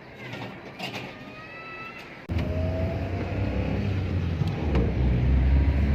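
A motor vehicle's engine running with a steady low rumble, which cuts in suddenly about two seconds in. Before it there is only a faint background with a few short high tones.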